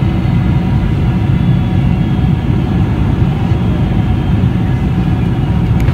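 Steady, loud low rumble of a Boeing 747-400 heard from inside the cabin, the noise of its engines and rushing air.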